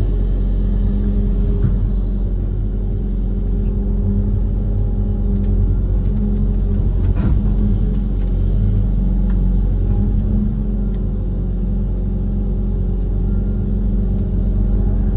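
Diesel engine of a Kobelco SK130 amphibious excavator running steadily, a continuous low rumble with no change in speed.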